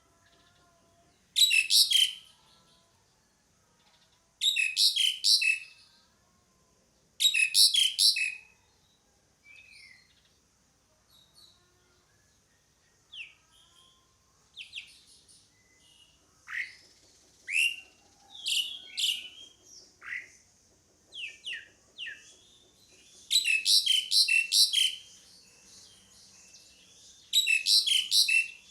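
Jalak suren (pied starling) calling: five loud bursts of rapid, chattering high notes, each about a second long, with a run of single down-slurred whistles in the middle.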